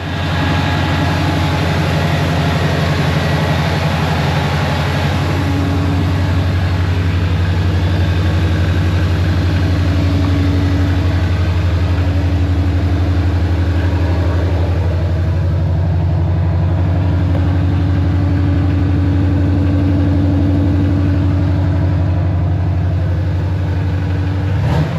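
1978 Chevrolet C10 pickup's engine idling steadily through a newly welded budget exhaust kit with headers and an X-pipe.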